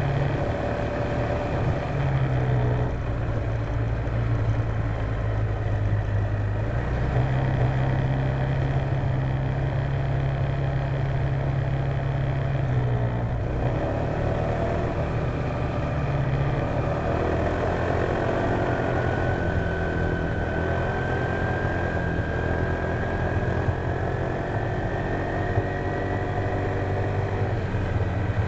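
A Honda PCX150 scooter's single-cylinder engine running on the move, with steady wind and road rush, picked up by a dashcam's microphone. The low engine note shifts with the throttle, and a thin whine slowly rises in pitch through the second half.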